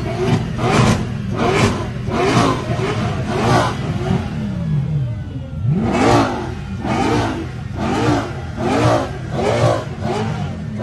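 Mercedes-AMG SLS Black Series' 6.2-litre V8 with Weistec long-tube headers, revved hard in quick repeated throttle blips, each rev rising and falling. Near the middle the revs fall away in one longer sweep, then climb again into more fast blips.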